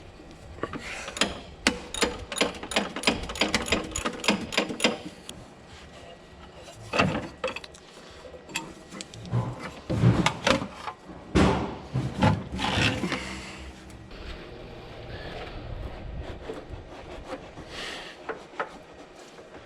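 Hand ratchet wrench clicking in quick repeated strokes, about three or four clicks a second, as bolts are worked loose, then metal parts and tools clunking and scraping as they are handled.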